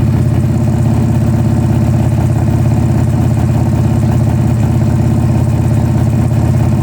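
Car engine idling steadily with an even, rapid pulse, running with its knock sensor relocated.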